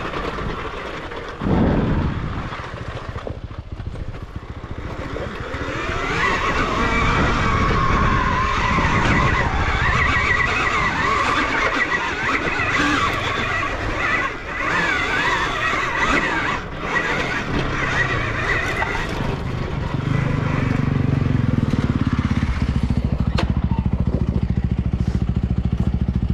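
Dirt bike under heavy throttle, its pitch rising and falling as it struggles to get up a steep climb. In the last few seconds it settles to a steadier, lower running sound.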